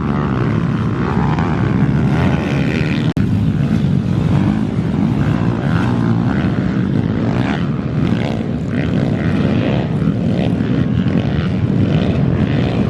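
Small-capacity pit bike engine running hard while racing, its note shifting up and down as the throttle changes.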